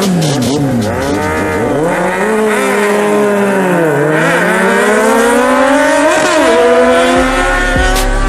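Sport motorcycle engines revving, their pitch swinging up and down several times, then climbing steadily from about halfway through.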